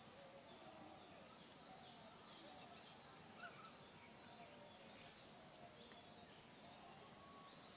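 Near silence: quiet outdoor ambience with faint, scattered bird chirps throughout.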